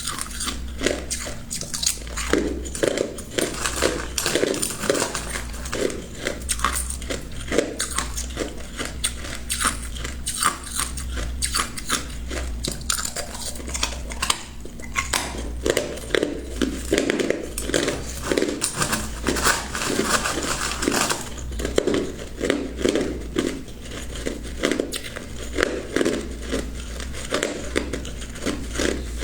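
Ice being bitten and chewed close to the microphone: continuous crunching and cracking, with chewing strokes about twice a second.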